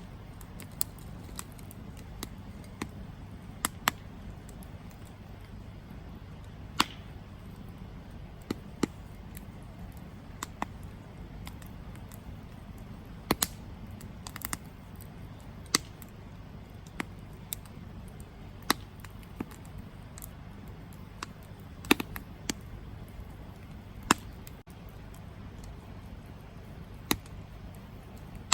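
Campfire burning, with irregular sharp crackles and pops from the burning wood over a steady low rumble of flame.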